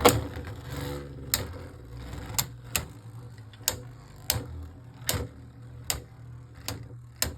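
Two spinning Beyblade Burst tops battling in a stadium: sharp, separate clacks as they strike each other, irregularly spaced, about one or two a second, over a steady low hum.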